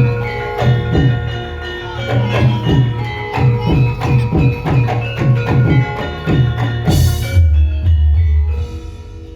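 Javanese gamelan music: ringing struck metal tones over a quick run of drum strokes, with a loud sharp hit about seven seconds in followed by a deep ringing tone that fades.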